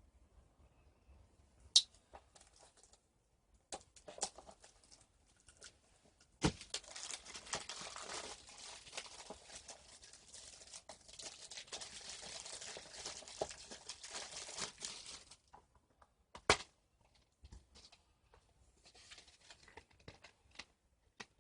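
Plastic shrink-wrap being torn and peeled off a Blu-ray case: a continuous crinkling, tearing noise for about nine seconds, with a sharp click before it and another after it.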